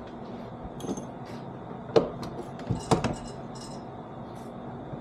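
Steel saw chain and vise being handled and repositioned: metal links jangling and clinking, with two sharper knocks about two and three seconds in.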